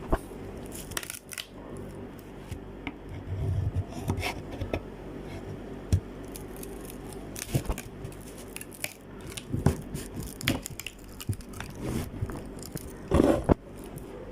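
Irregular knocks and scraping as a screwdriver, struck with a hammer, chips a round entrance hole out of a thin wooden board.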